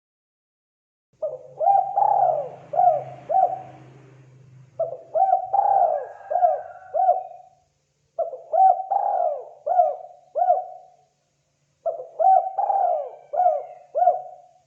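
Spotted dove cooing: four repeated phrases, each a quick run of about five coos, with a second or so of pause between phrases.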